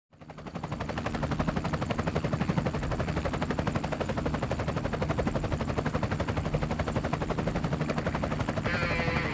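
Helicopter rotor beating in a fast, even pulse over a steady low engine hum, fading in over the first second. A higher wavering sound joins near the end.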